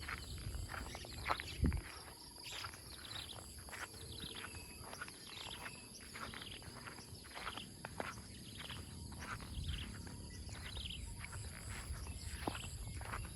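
Morning birdsong: several birds chirping repeatedly in short, falling calls over a steady high insect drone, with a low rumble underneath and one dull thump near the start.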